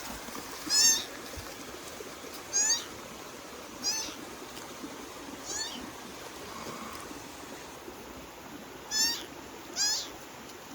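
Kitten mewing: six short, high-pitched mews at uneven intervals, two of them close together near the end.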